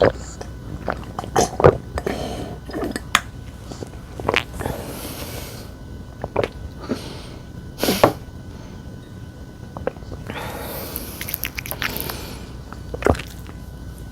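Close-miked eating sounds: chewing and crisp bites, heard as a run of sharp short clicks. Two longer airy sounds come about five and about eleven seconds in.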